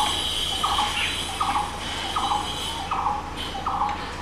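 A bird calling over and over, a short rasping note about every three-quarters of a second. A high, shrill sound comes and goes behind it.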